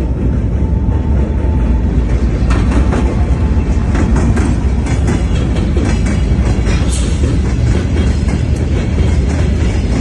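Freight train with a TE33AC diesel locomotive passing, a loud steady low rumble. From about two and a half seconds in, wheels click rhythmically over rail joints.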